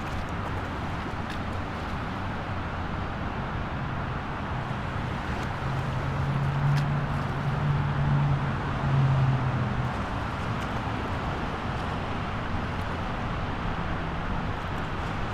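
Steady road traffic noise. A vehicle's engine drone swells from about five seconds in, is loudest a few seconds later, and fades out by about ten seconds, like a vehicle passing.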